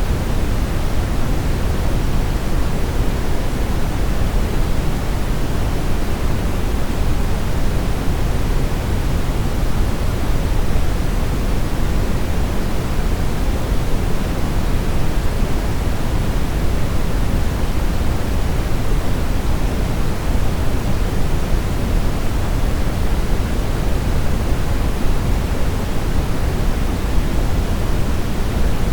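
Brown noise: a steady, unchanging deep rushing hiss, strongest in the bass, used as a sleep sound.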